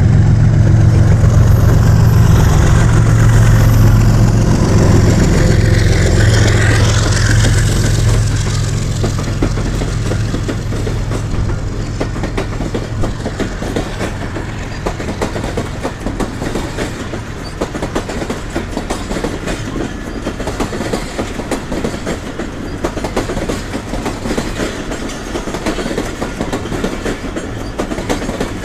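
Pakistan Railways GEU-40 diesel-electric locomotive hauling the Pakistan Express past. Its engine hum is loud for the first several seconds, then fades as the passenger coaches follow, clattering steadily over the rail joints.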